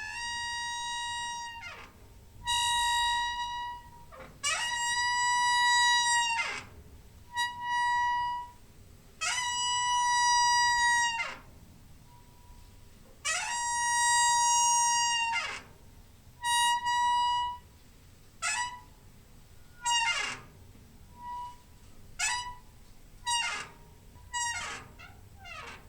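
Door hinge squeaking again and again as the door is swung: long creaks of about two seconds at a steady high pitch, some sliding down at their ends, with short, quicker squeaks in the last third.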